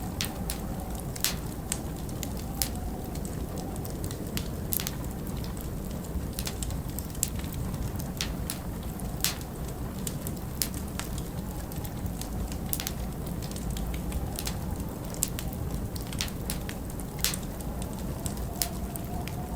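Wood fire burning in a fireplace, crackling with frequent sharp pops at irregular intervals over a steady low rumble of winter wind, with a faint wavering howl in the wind.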